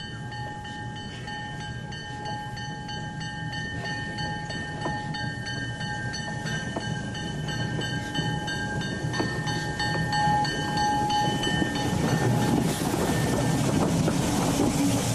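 Steam train pulling into a station: steel wheels clicking over rail joints under a steady high squeal, growing louder as it approaches, with a broad rushing noise building near the end.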